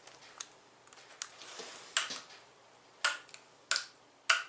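Six sharp clicks, irregularly spaced about a second apart.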